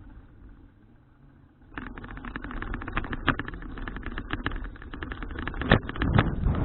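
Bicycle rattling and clattering as it rolls over a rough surface: a dense run of irregular knocks and jolts over a low rumble, starting about two seconds in after a quieter start.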